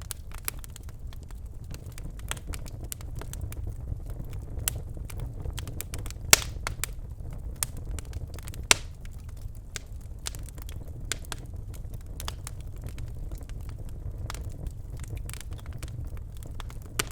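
Birchwood fire burning in a fireplace: a steady low rumble of flames with irregular crackles and snaps, two sharper pops standing out about six and nine seconds in.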